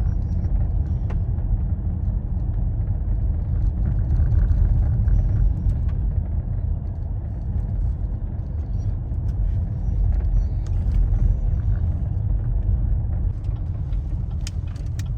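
Steady low rumble of a vehicle driving, heard from inside it, with a few light clicks near the end.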